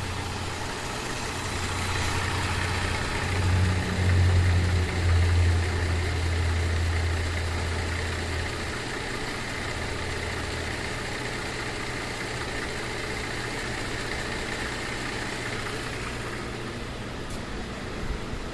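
2008 Cadillac SRX's 3.6-litre V6 idling rough, the engine that is throwing misfire and cam/crank correlation codes. A low drone, loudest about four to five seconds in, fades away after about nine seconds, leaving a quieter, steady running sound.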